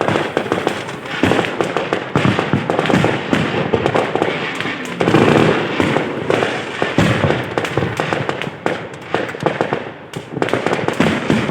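Fireworks display: a rapid, unbroken barrage of bangs and crackling bursts, many shots overlapping, loudest around the middle.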